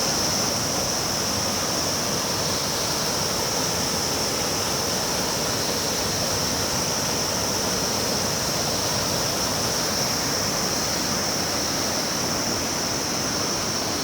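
Steady rush of flowing river water, with a continuous high-pitched insect drone over it.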